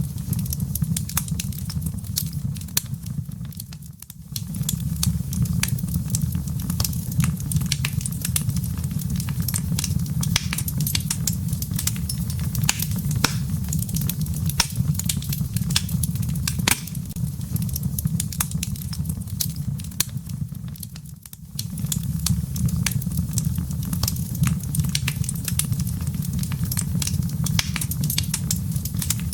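Wood fire crackling in a fireplace: dense sharp pops and snaps over a steady low rumble, briefly fading down twice.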